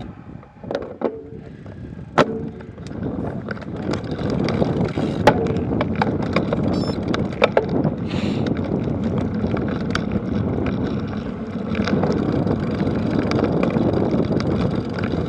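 Bicycle rolling over rough ground: a steady rumble of tyres and wind on the microphone, with sharp rattling clicks and knocks from the bike.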